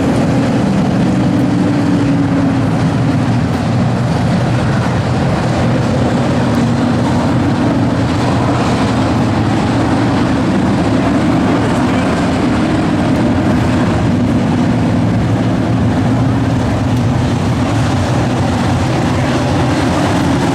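A field of dirt-track pro race trucks racing: several engines running at once, loud and steady, their pitch rising and falling.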